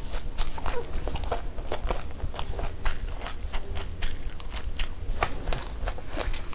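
Close-miked chewing of a full mouthful of puri and spicy egg masala, with irregular wet mouth clicks and smacks several times a second.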